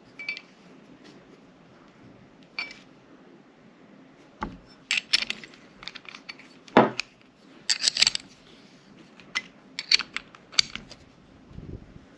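Metal clicks and clinks from handling a sight pusher tool and a Glock 17 pistol slide: irregular sharp taps, sparse at first, then a busy cluster from about four seconds in, loudest around seven and eight seconds in.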